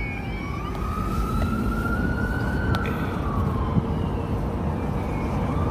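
Emergency vehicle siren wailing: one slow rise and fall in pitch. It is heard from inside a moving car over steady road noise.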